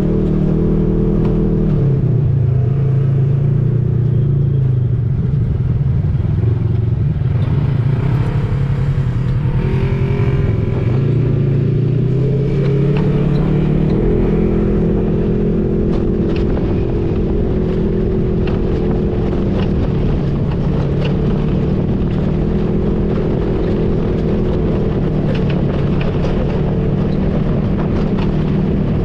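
Side-by-side UTV engine running steadily under way, its pitch dropping about two seconds in and climbing again around eleven to thirteen seconds. Scattered clicks and rattles come through in the second half.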